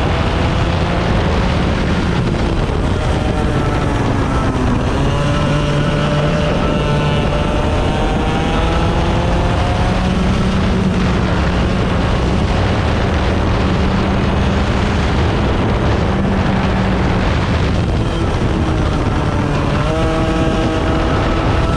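Several 100cc racing engines running at speed. Their pitches overlap and rise and fall as they accelerate and ease off, with a fresh rise near the end.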